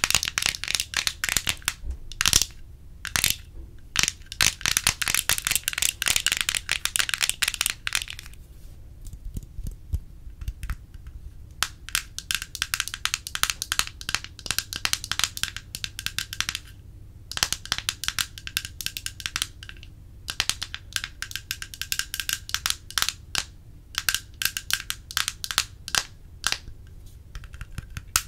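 Close-miked ASMR trigger sounds: dense flurries of fast, crisp clicks and taps. There is a pause of a few seconds about eight seconds in, then shorter bursts.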